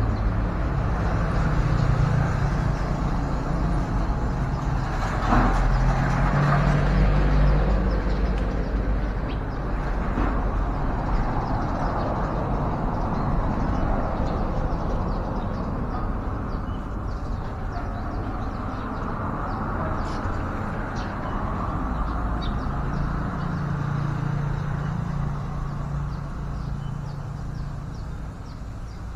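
Road traffic: a steady rumble of passing vehicle engines, with a low engine hum swelling over the first several seconds and again near the end.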